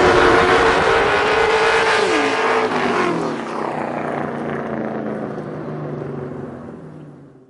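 A vehicle engine running at high revs on a drift track, its pitch dropping sharply about two seconds in and the sound then fading away as it moves off, before cutting off abruptly at the end.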